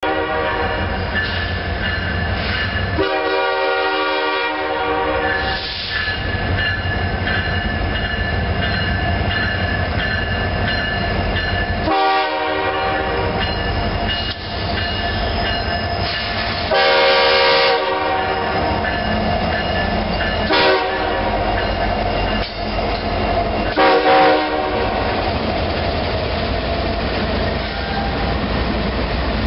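Diesel freight train led by an EMD SD70M-2 locomotive approaching and passing close by, its air horn blowing about five times, two of them longer, over the steady rumble of the diesel engines. Wheels clatter on the rails as the locomotives and autorack cars go by near the end.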